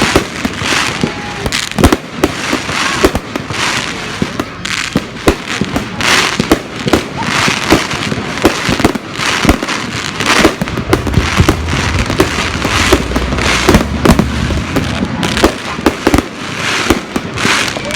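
Fireworks going off: an irregular run of many sharp bangs with crackling between them, and a low rumble partway through.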